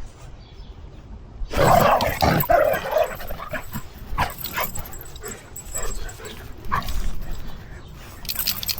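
A pet dog barking and yipping: a loud burst of barks about a second and a half in, then scattered shorter barks.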